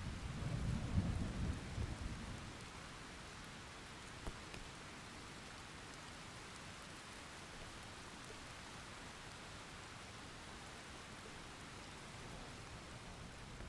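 Steady rain falling, with a low roll of thunder in the first couple of seconds that fades out, and a single sharp drip or tick about four seconds in.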